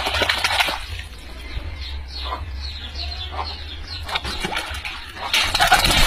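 A bird calling in a run of short, falling chirps, about three a second, between louder noisy bursts at the start and near the end.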